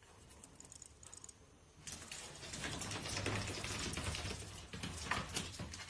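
Faint, rapid, irregular clicking and scratchy rustling that starts about two seconds in, after a near-silent start.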